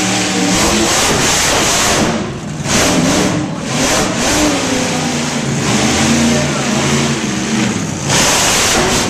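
Monster truck engine revving hard, its pitch rising and falling several times, with a brief dip in level about two seconds in.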